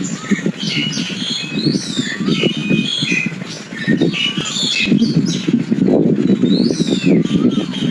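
Nias hill myna calling: a string of short whistles and harsh squawks, some sliding down in pitch, over a steady low rumble.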